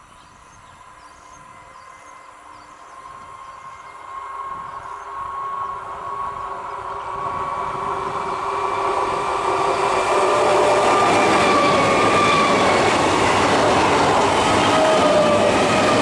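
Electric multiple-unit (EMU) local train approaching and passing close at speed. It grows steadily louder for about ten seconds and then stays loud, a whine and the clatter of wheels on the rails over a rushing noise.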